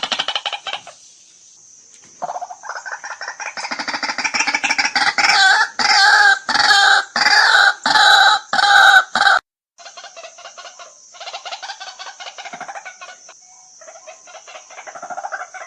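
White-breasted waterhen calling: a run of repeated croaking notes that swells into loud calls about two a second. The run cuts off abruptly about nine seconds in, and fainter calls follow over a steady high hiss.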